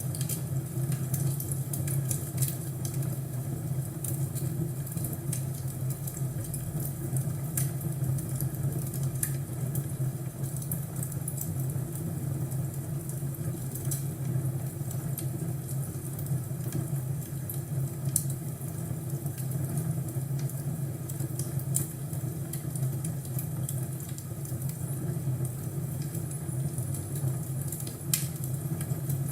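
Crackling wood fire: a steady low rumble with frequent small pops and snaps scattered throughout.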